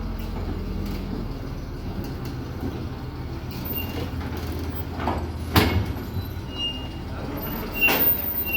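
A heavy vehicle's engine running steadily at idle with a low rumble. Sharp metallic clanks come about five and a half seconds in and again near the end.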